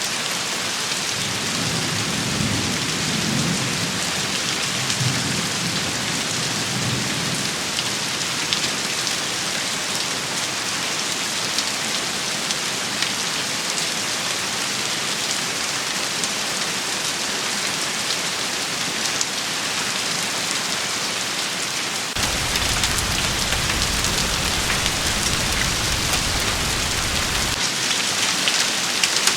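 Steady heavy rain shower pattering on surfaces. A low rumble of distant thunder swells and fades in the first several seconds, and about 22 seconds in a low rumble starts abruptly, then cuts off about five seconds later.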